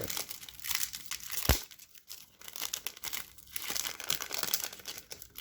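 Foil sticker packet being torn open and crinkled by hand, with bursts of rustling and one sharp knock about one and a half seconds in.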